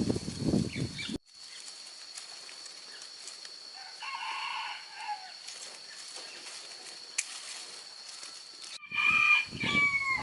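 A rooster crowing twice: a call of about a second near the middle, and another near the end that falls in pitch at its close. Before these, a loud low noise cuts off abruptly about a second in.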